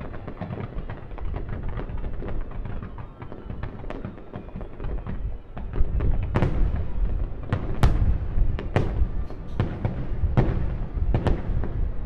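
Fireworks display: a dense crackle of bursting stars over a steady low rumble, then from about halfway a run of sharp, loud aerial shell bursts, one or two a second.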